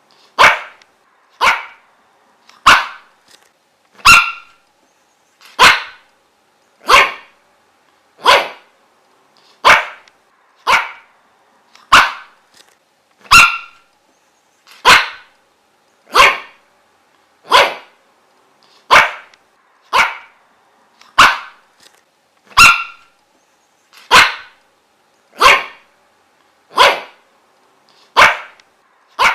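A dog barking single sharp barks at a steady, even pace, about one every second and a quarter, with no pauses.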